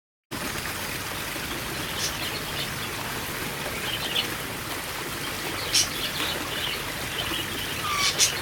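Small birds chirping in short bursts over a steady hiss, with a few sharp ticks and one short falling whistle near the end.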